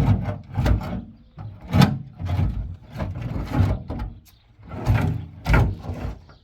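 Repeated scraping and knocking, about eight rough strokes spaced half a second to a second apart, with short pauses between.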